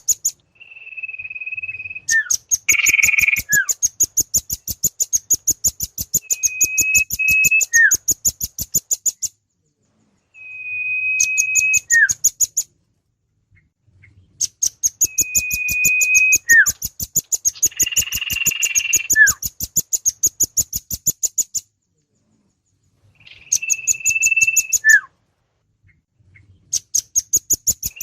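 Looped bird-luring recording of rambatan (velvet-fronted nuthatch) and sirtu calls: trains of rapid, high chipping trills at about ten chips a second that break off and restart, alternating with a short steady whistle ending in a quick falling note.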